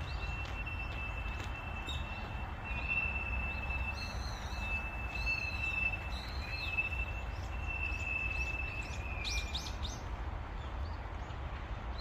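Small birds chirping in short calls over a steady low background rumble, with a thin, steady high tone running through most of it and stopping shortly before the end.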